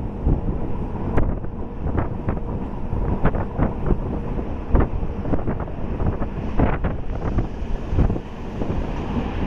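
A moving MEMU electric commuter train: a steady rumble with irregular knocks and clicks, and wind buffeting the microphone.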